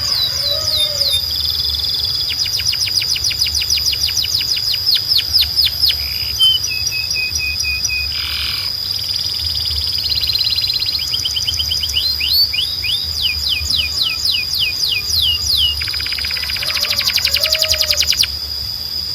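Canary singing: fast trills of short downward-sliding notes, broken by a few lower buzzy rolls, over one high whistled note held throughout. A low steady hum sits underneath.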